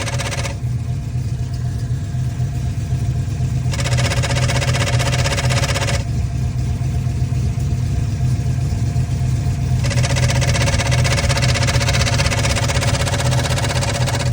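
Factory Five Shelby Cobra replica's engine idling steadily with its TKX gearbox and clutch. Three times a rattling shudder noise cuts in over the idle and then stops abruptly, each spell lasting a few seconds. This is the noise that appears when the clutch pedal is pushed in.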